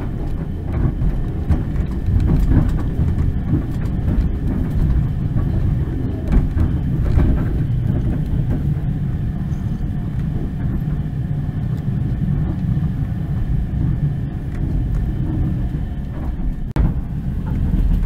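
Steady low rumble of a moving passenger train, heard from inside the carriage: wheels running on the rails, with a sharper knock near the end.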